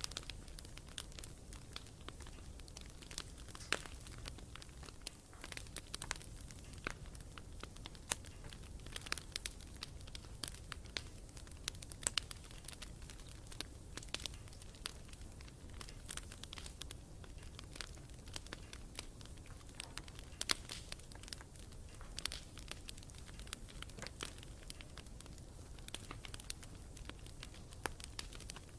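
Wood campfire crackling, with frequent sharp, irregular pops and snaps over a low steady rumble of the flames.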